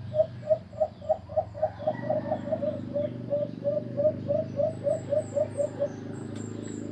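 An alimokon dove cooing in a quick run of about twenty short, evenly spaced notes, roughly three a second, which stops about six seconds in. Faint high chirps of small birds come near the end, over a steady low hum.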